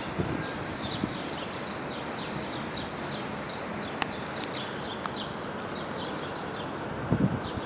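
Small birds chirping over and over in quick short calls, against a steady outdoor background hiss. There is a sharp click about four seconds in, and a few low thumps on the microphone, the loudest near the end.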